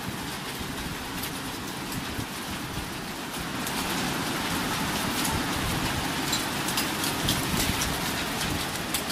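Heavy rain falling steadily, with scattered sharp ticks of drops striking close by. It grows a little louder about three and a half seconds in.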